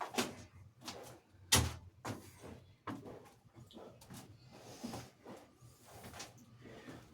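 Irregular knocks and clunks, about eight over several seconds with the loudest about a second and a half in, from metal parts of an old cast-iron flour mill being handled during dismantling.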